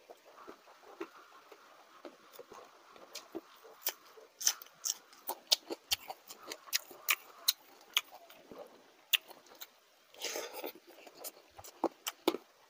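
Close-miked eating: a person chewing a mouthful of rice and side dishes, with wet mouth smacks and sharp crisp clicks coming irregularly, now and then several a second, and a longer, louder burst about ten seconds in.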